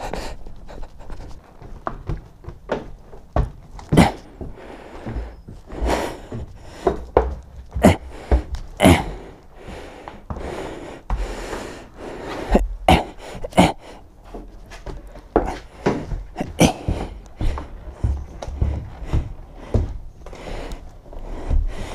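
A person breathing hard close to the microphone, mixed with irregular knocks and thuds of handling.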